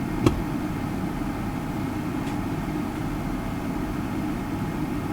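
Steady low mechanical hum, like a motor or fan running, with one sharp click about a third of a second in and a fainter tick a little after two seconds.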